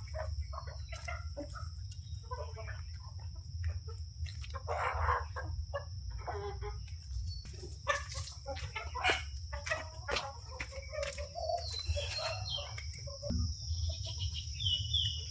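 Chickens clucking in short, scattered calls over a steady high-pitched drone.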